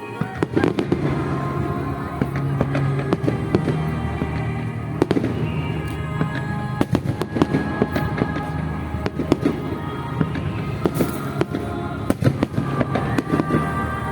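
Aerial fireworks going off in quick succession, with many sharp bangs and crackles and a louder bang about five seconds in, over music with sustained low notes played for the display.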